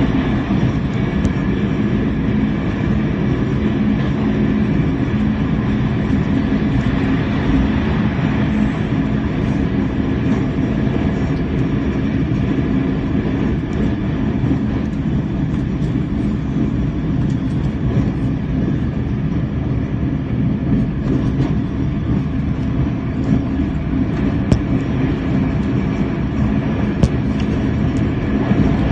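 Puyuma Express TEMU2000 tilting electric train running through a station at speed: a steady, loud rumble of wheels on rail with a low hum. A few sharp clicks come near the end.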